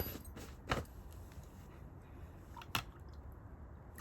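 Hands working potting soil in around a seedling's roots: faint rustling with two brief sharp clicks, about a second in and near three seconds.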